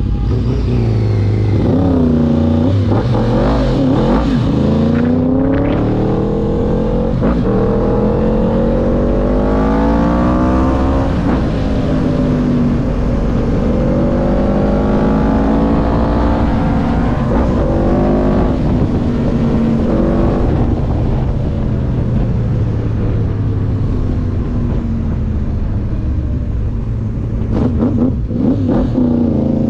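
Motorbike engines running, their revs rising and falling in slow sweeps.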